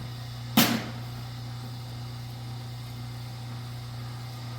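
A steady low hum with one short, sharp knock about half a second in, from handling Romex wire at a small wire stripping machine.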